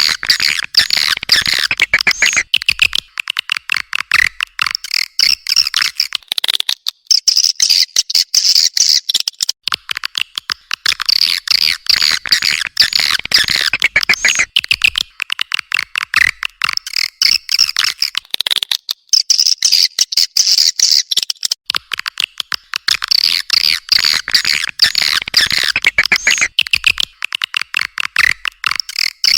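Edible-nest swiftlets twittering: a dense flock of rapid, high chirps in bursts a few seconds long with short breaks between them. It is a swiftlet-house call recording (suara panggil), used to lure swiftlets in to roost and nest.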